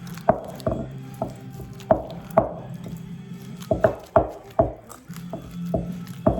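Cream-cheese filling being mixed by hand in a bowl: irregular wet slaps and knocks, about a dozen, some in quick pairs.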